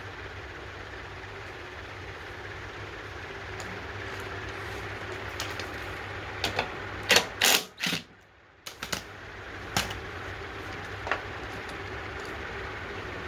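Steady mechanical hum with a cluster of sharp metallic clicks and clatter about six to ten seconds in, broken by a brief drop almost to silence near the middle.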